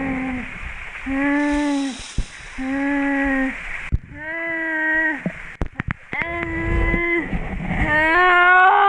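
An injured person moaning in pain: about six drawn-out moans with short gaps between them, rising higher near the end, over the steady rush of waterfall water.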